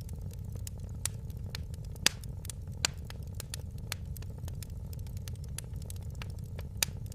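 Fire in a fireplace crackling: sharp, irregular pops over a steady low rumble. The loudest pops come about two and three seconds in.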